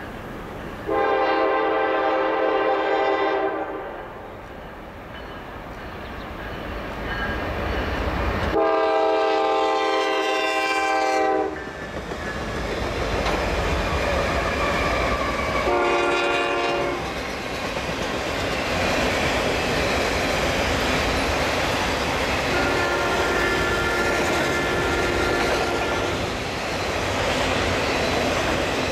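Norfolk Southern freight train led by a GE C44-9W sounding its multi-chime air horn in the long-long-short-long grade-crossing pattern, the last blast fainter. Meanwhile the train rumbles closer and then passes, its locomotives and cars running over the rails.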